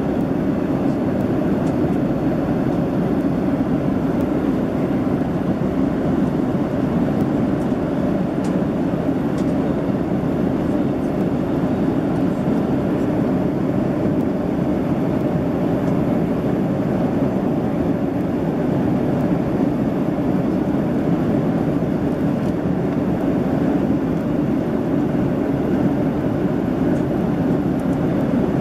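Steady airliner cabin noise inside a Boeing 767-300ER in flight: a constant low rush of engine and airflow noise with no change in pitch or level.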